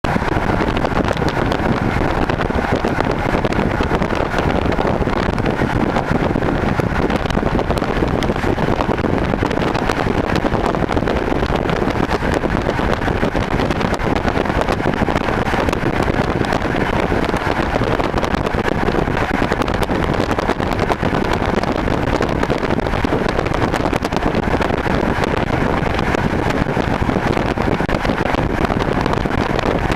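Passenger train running at speed: a steady rumble and rushing noise of the wheels on the rails and the air, with a faint steady whine above it.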